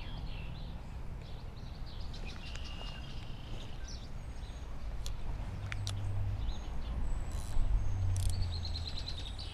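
Birds chirping in short strings of high notes over a low steady rumble, with a few light clicks around the middle.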